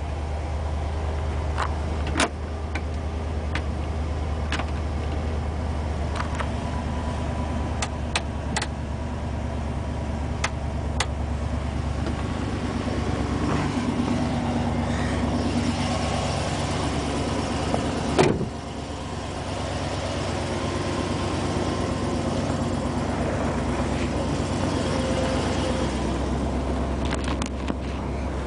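A 1987 Ford F350's 351 Windsor V8 idling steadily just after a cold start in freezing weather. Scattered sharp clicks and one louder knock about 18 seconds in sound over it.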